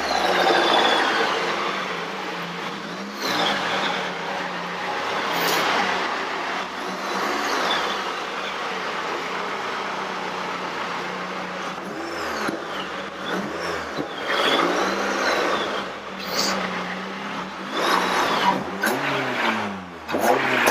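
Rover Metro with a 1.8 K-series VVC engine being driven hard, its engine revving up and dropping back again and again as it goes through the gears, over a heavy rush of noise.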